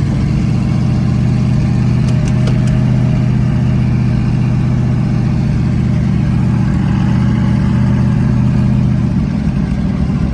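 Twin-turbo LS V8 engine running at a steady, even pitch while the car is driven, a low engine note with no big revs.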